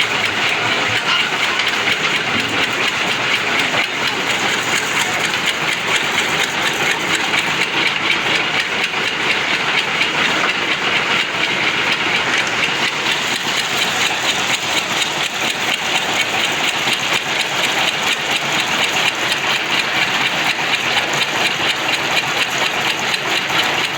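Construction machinery running steadily with a dense, even rattling clatter and hiss that does not let up.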